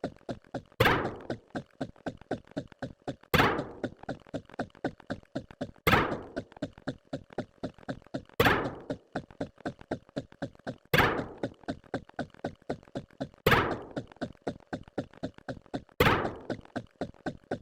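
A percussive sound effect repeating about every two and a half seconds: each time a loud knock, then a quick run of quieter taps.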